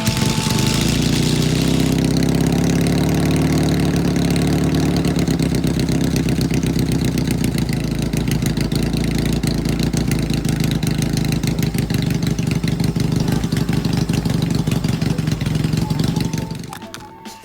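Motorcycle engine running steadily with a fast, even beat of firing pulses, then cutting off near the end.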